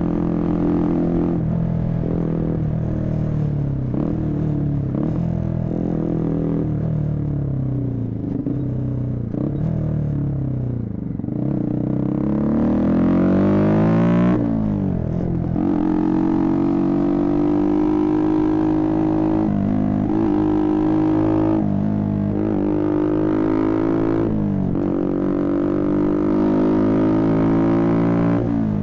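Motorcycle engine running while riding, held at steady revs, then climbing in pitch as it accelerates about halfway through and dropping sharply at a gear change, with a few short dips in revs afterwards.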